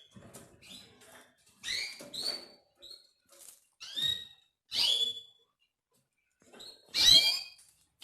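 Canaries giving short, high chirping calls, each a quick downward sweep, one after another with uneven gaps; the strongest call comes about seven seconds in.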